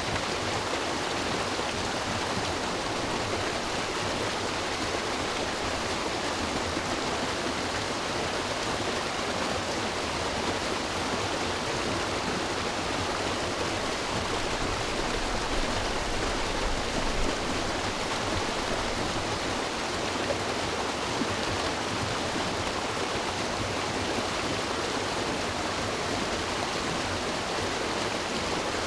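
River water rushing steadily over rocks, an even, continuous noise without pauses.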